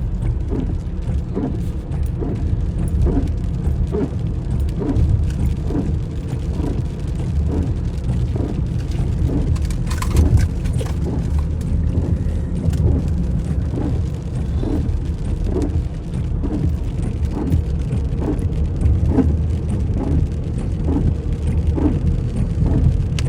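Vehicle driving in the rain: a steady low rumble of road noise, with a soft regular pulse about twice a second.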